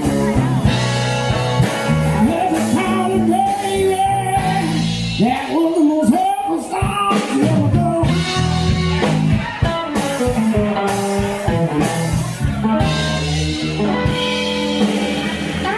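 Blues band playing: electric guitar with bending notes over bass and drums.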